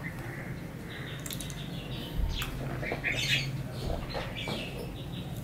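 Birds calling, a cluster of short calls in the middle, over a steady low hum, with two soft low thumps about two and four seconds in.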